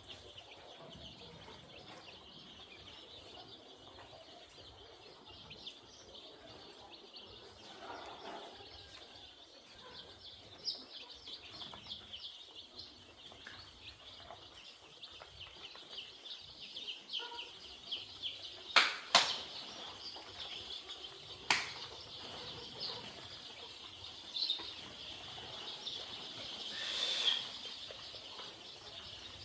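A flock of young chicks peeping together in a steady, dense chorus. A few sharp knocks sound about two-thirds of the way through.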